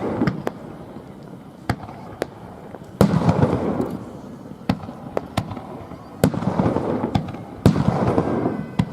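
Aerial firework shells bursting: three loud sharp bangs, about three seconds in, at about six seconds and near eight seconds, each followed by about a second of crackling, with lighter single pops in between.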